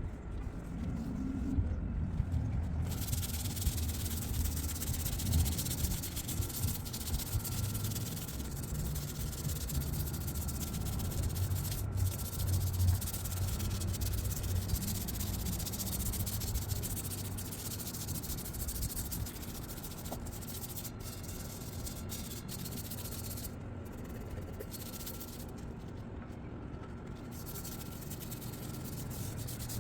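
Scrubbing and wiping grimy patio furniture with vinegar, a continuous irregular rubbing. A steady hiss joins about three seconds in.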